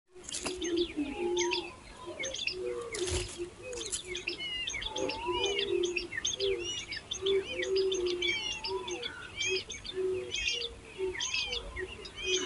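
Hungry nestlings begging with rapid, overlapping high chirps, many short rising and falling notes. A lower repeated call runs beneath them, and a brief rustle comes about three seconds in.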